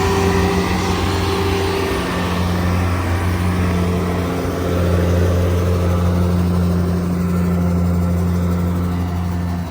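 Kubota DC70G Plus combine harvester's diesel engine running steadily with a deep hum, easing briefly about four and a half seconds in.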